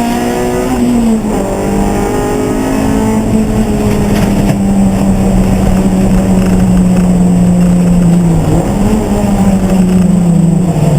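Racing car engines running on track at high revs. An engine note rises and then drops in pitch in the first second, then one steady note holds for several seconds and dips briefly twice in the second half.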